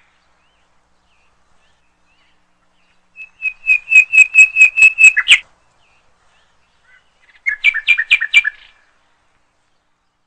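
A bird chirping in two quick runs of sharp, high, repeated notes: about eight evenly spaced notes a few seconds in, then a shorter run of two-pitched notes near the end.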